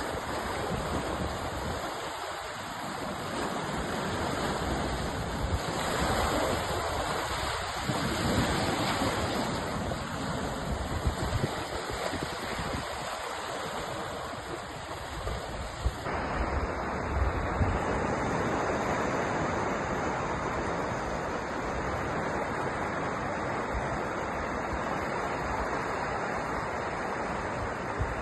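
Sea waves breaking and washing ashore: a continuous rush of surf that swells and eases every few seconds. About halfway through, its tone changes abruptly.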